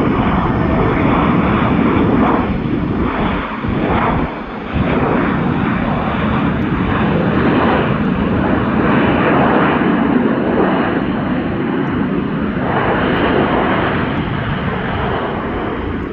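Jet airliner engines running loud and close, a continuous rushing, rumbling noise that swells and eases slightly.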